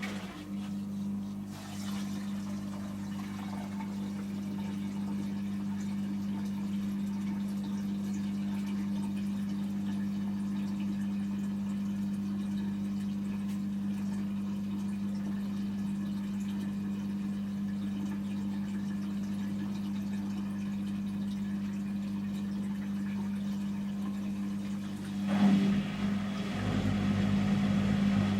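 Samsung Series 5+ washing machine draining at the start of its intermediate spin: the drain pump hums steadily with water rushing through it. About 25 seconds in, the sound gets louder and rougher as the spin gets under way.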